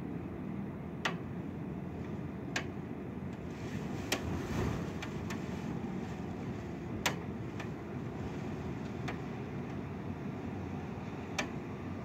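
Steady low rush of wind and rain, with scattered sharp ticks of drops striking a surface close by.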